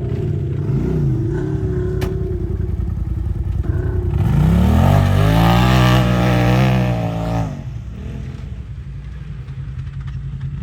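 Engine revving hard on a drag-race run: the pitch climbs steeply about four seconds in, holds at high revs, and cuts off sharply about seven and a half seconds in, leaving a lower engine rumble.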